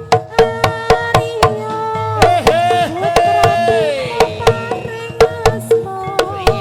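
Live East Javanese barongan music: hand-drum strokes at a brisk, steady pace under a held melody line that slides up and down in pitch about midway through.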